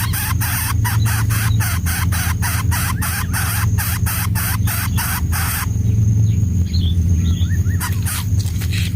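Greater coucal nestlings giving rapid pulsed hissing begging calls, about four or five a second, which stop abruptly about five and a half seconds in. Faint bird chirps and a thin steady high insect-like tone follow, over a steady low rumble.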